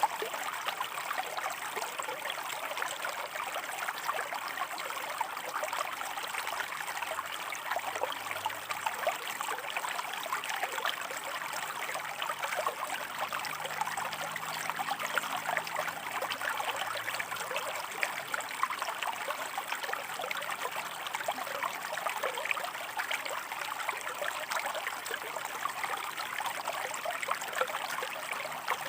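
A shallow river running and splashing over rocks, a steady even rush with many small trickles and splashes.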